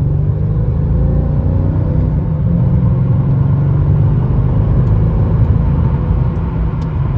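Mercedes E55 AMG's supercharged M113K V8 running steadily under way, with road noise, as the car is driven. The freshly serviced five-speed automatic is changing gear smoothly.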